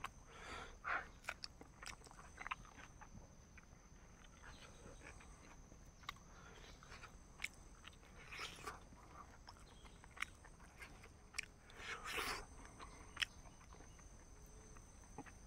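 A person eating close to the microphone: soft chewing and biting with irregular small crunches and mouth clicks, a little louder twice in the second half.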